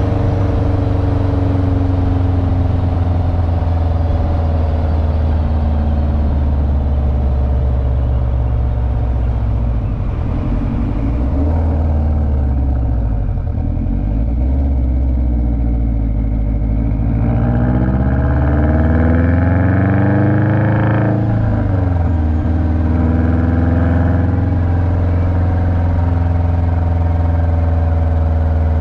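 Car engine running while driving, along with road noise. It holds a steady, slowly shifting drone, then revs up with a rising pitch a little past halfway, and falls back abruptly about two-thirds of the way through.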